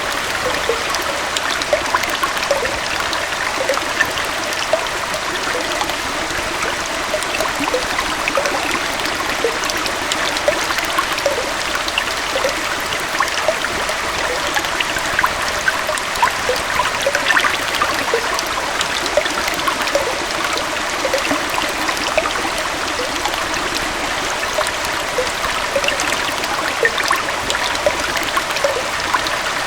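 Small waterfall and stream running steadily over rocks, a continuous rush of water with many small bubbling and splashing sounds.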